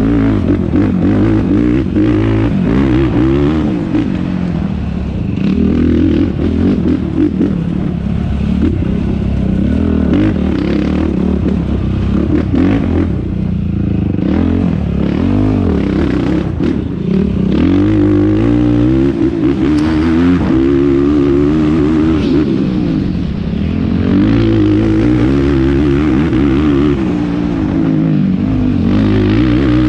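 Yamaha YFZ450R quad's single-cylinder four-stroke engine under race load, its pitch rising and falling again and again as the throttle is worked and gears change, with some clatter at times.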